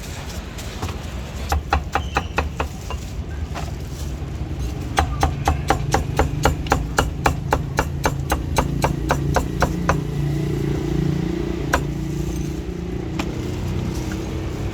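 Cleaver chopping roast meat on a chopping block: a short run of strikes, then a longer quick run of about four to five chops a second, and a few single chops near the end, over a low street rumble.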